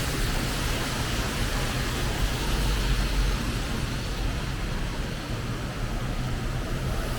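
Steady city street traffic noise on rain-wet roads: a low rumble of passing vehicles under a continuous hiss.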